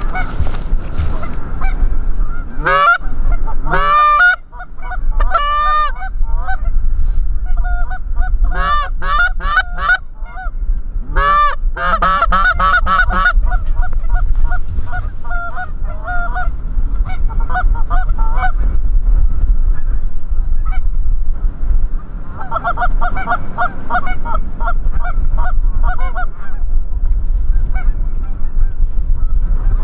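Canada goose honking and clucking, many calls in quick runs, thickest in the first half and again toward the end, over a steady low rumble.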